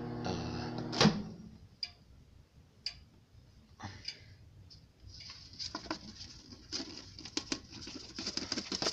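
Microwave oven humming, cut off by a loud click about a second in. Then scattered faint clicks and, from about halfway, a growing crackling patter of small ticks.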